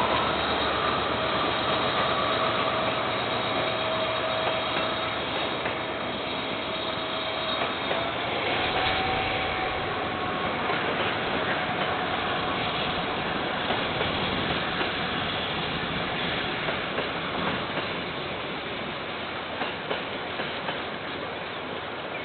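KiwiRail train going past with a steady rolling rumble, slowly fading, and a thin high whine that steps up slightly about eight seconds in and dies away midway. Near the end the wheels click over the rail joints.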